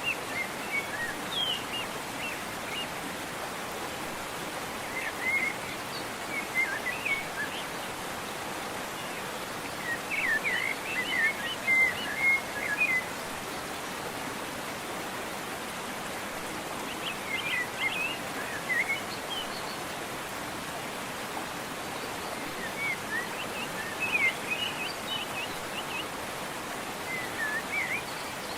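Steady rush of falling water from a waterfall, with birds chirping in short phrases every five seconds or so.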